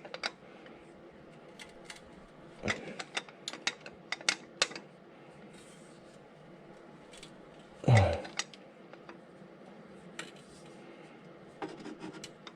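Socket ratchet working a stiff engine mount bolt under a car: scattered bursts of ratchet clicks and metal clinks of the socket and extension, with one louder sudden sound about eight seconds in.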